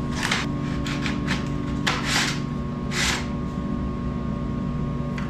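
Packaging rustling in several short bursts as a new bandsaw kit is unpacked, over a steady background hum.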